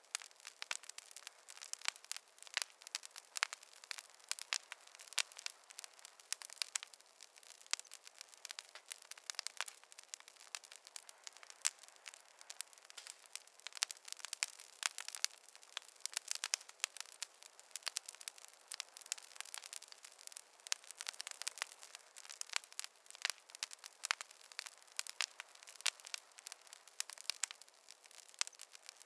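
Wood fire crackling: a dense run of sharp, irregular pops and snaps over a faint hiss.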